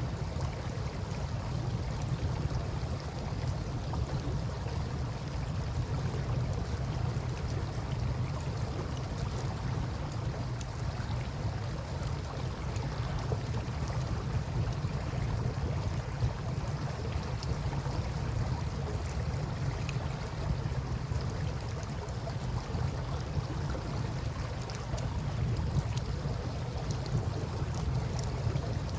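A campfire crackling faintly, in sparse small ticks, over a steady low rumble of flowing river water.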